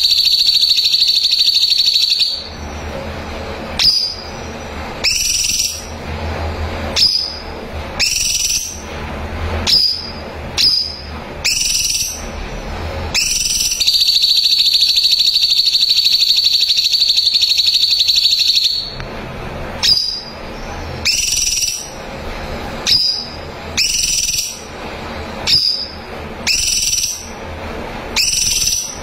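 Cucak cungkok singing. Short sweeping whistled notes come roughly once a second. Two long, rapid, high trills ring out: one at the start lasting about two seconds, and one in the middle lasting about five.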